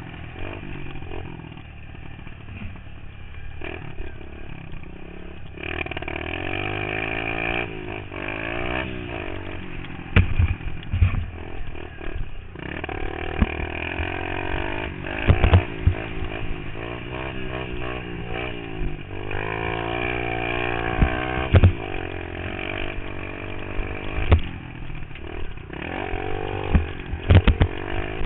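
Pit bike engine revving up and down over and over as it is ridden around a dirt track, picked up by a helmet-mounted microphone. Several sharp knocks and thuds cut through the engine sound.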